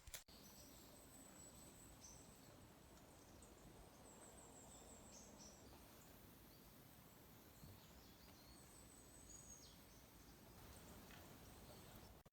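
Faint insects chirping in short high trills over a low, steady outdoor background.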